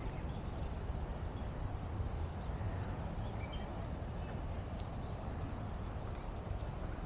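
A small bird gives three short, high calls that fall in pitch, a second or two apart, over a steady low outdoor rumble.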